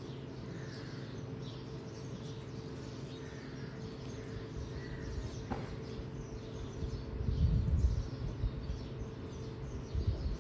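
Faint bird chirps over a steady low hum, with a single click about halfway through and low rumbling from about seven seconds in.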